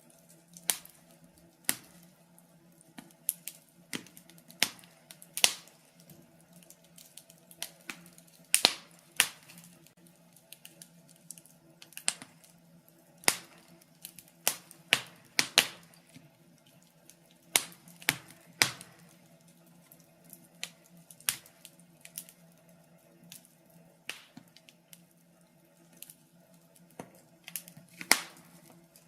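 Wood fire crackling in a fireplace: irregular sharp pops and snaps, a few each second and of varying loudness, over a faint steady hum.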